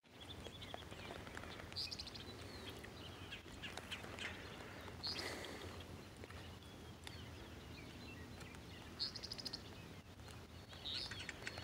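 Small birds calling in short high trills a few times, over a low steady outdoor background noise.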